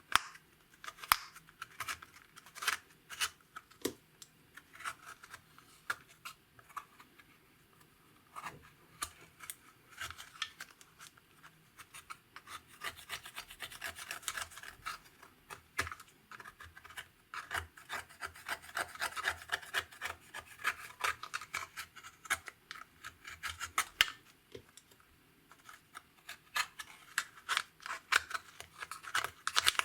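Clear slime and makeup being worked by hand: a stream of small sticky clicks, crackles and rubbing, sparse at first and densest through the middle.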